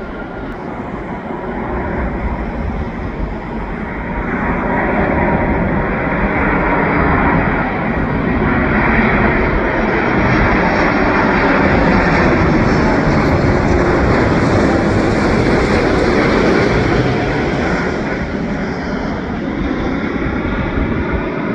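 Airliner on final approach to land passing by, its engine noise building to a loud peak in the middle and then easing off.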